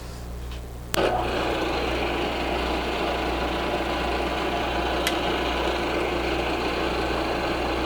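Milling machine starting with a click about a second in and then running steadily, set up for the first cut on an aluminium octagon. A low hum sits underneath throughout, and there is one more click about five seconds in.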